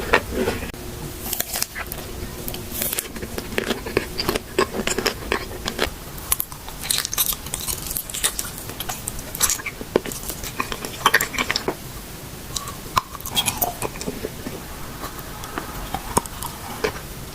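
Close-miked eating: repeated bites and chewing with crisp crunches and irregular crackling mouth sounds.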